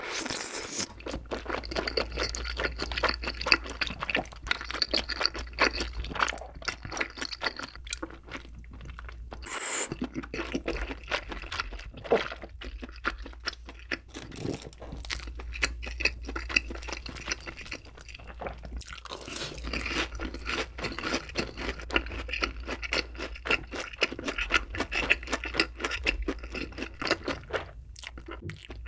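Close-miked eating sounds of jjimdak: slurping and chewing slippery wide glass noodles and braised chicken, a dense run of wet smacks and clicks with a brief pause about a third of the way in.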